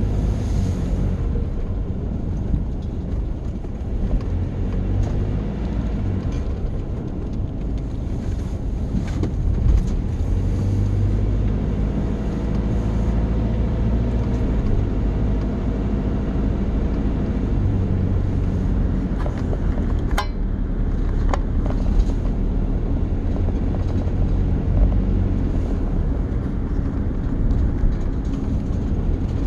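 Steady low rumble of a running vehicle, with two brief sharp clicks about two-thirds of the way through.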